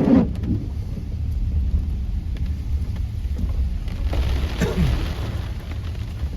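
Rain falling on a car, heard from inside the cabin as it drives, over a steady low rumble of the engine and tyres.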